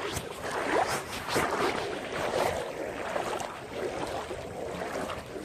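Floodwater sloshing and splashing in irregular surges as people wade through it.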